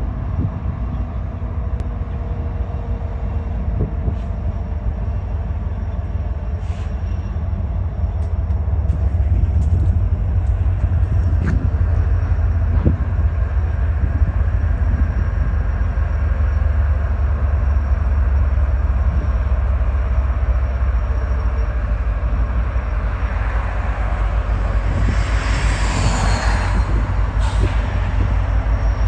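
Diesel locomotives of a BNSF freight train passing, a steady low engine rumble with the running noise of the train. Near the end there is a brief louder hiss with a falling squeal.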